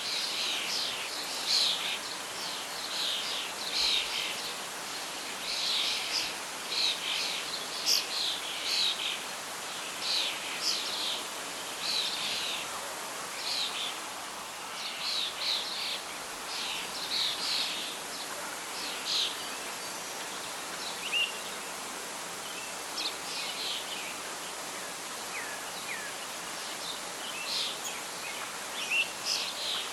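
Birdsong over a steady rustle of wind in leaves: frequent short high chirps through the first two-thirds, thinning out later, with a few brief whistles near the end.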